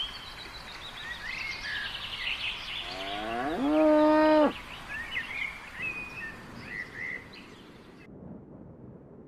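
A cow moos once, a rising then held call of about a second and a half, the loudest sound here. Small birds chirp around it and fall away near the end.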